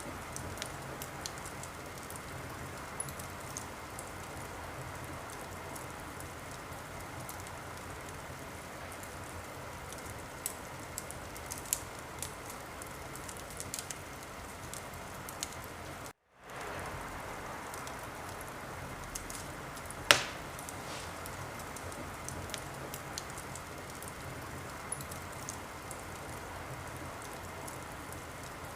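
Wood fire crackling in a fireplace: a steady hiss with frequent small crackles and one loud sharp pop about two-thirds of the way through. The sound cuts out completely for a moment about halfway, then fades back in.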